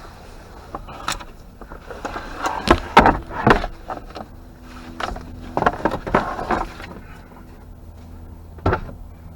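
A series of knocks and clunks, bunched around three seconds in and again around six seconds, with one sharp knock near the end, over a faint low steady hum.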